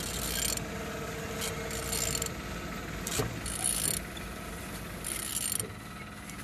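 Suzuki M16A engine being turned over by hand, a ratchet clicking and the pulleys and internals turning in about four separate strokes; the engine turns, so it is not seized.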